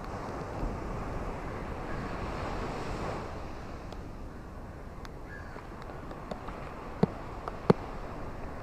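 Ocean waves washing on the shore, one wave swelling over the first few seconds and then easing off. Scattered sharp clicks run through it, with two louder clicks near the end.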